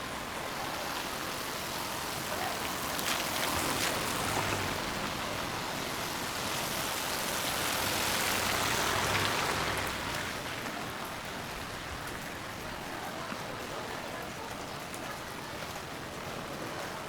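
Steady rain falling on a city street: an even hiss that swells louder for several seconds in the middle, then settles back.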